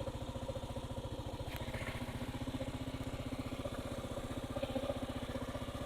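Kawasaki KLR650's single-cylinder four-stroke engine running at low, steady revs, with an even chugging pulse of roughly a dozen beats a second.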